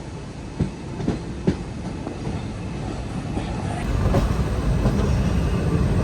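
Passenger train running on the rails, wheels clacking over rail joints with a steady rumble; a few sharp clacks come in the first second and a half, and the running grows louder from about four seconds in.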